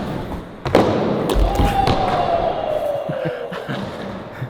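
Skateboard slamming down on flat ground with a loud thud, then rolling with a scraping noise and a thin squeal that falls slowly in pitch, dying away near the end. This is a failed landing of a switch backside 360 kickflip attempt.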